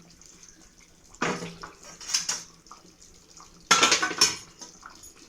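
Metal utensils clattering against a cooking pot in three short bursts, the last the loudest with a brief ring.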